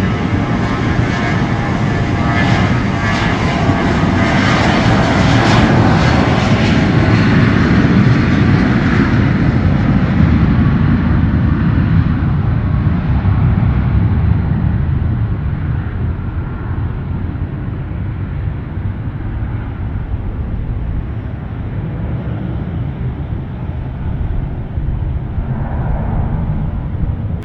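Airliner's engines passing close by: a whining tone over a loud rumble that builds for the first several seconds, then slowly fades away.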